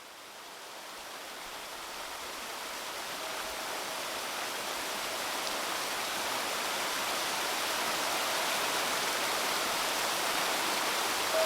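Shallow river babbling in a steady rush, fading in and growing gradually louder. A faint, brief ringing tone sounds about three seconds in.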